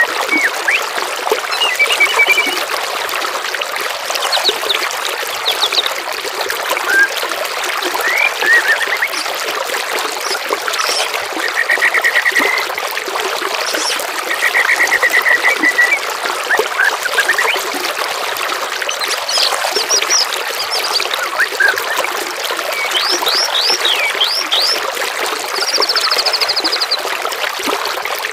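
Songbirds singing short, rapid trills and chirps every few seconds over steady trickling running water, from a bird-song masteran recording.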